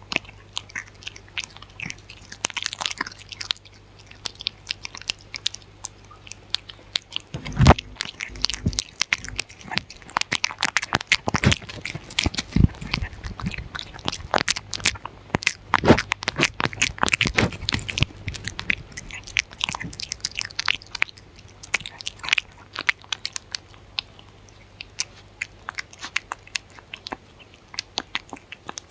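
Dog chewing and crunching food close to the microphone, a steady run of sharp crunches that thickens in the middle and thins out near the end. One heavy thump comes about eight seconds in.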